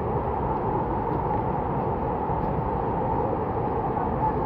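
Steady rain falling on the forest, an even hiss with a deep rumble underneath.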